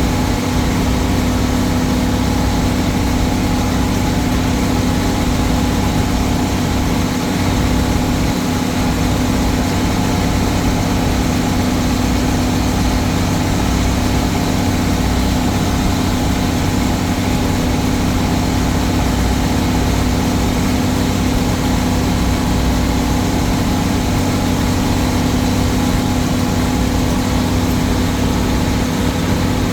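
Old Case tractor engine running steadily at a constant speed, with a strong, unchanging engine tone.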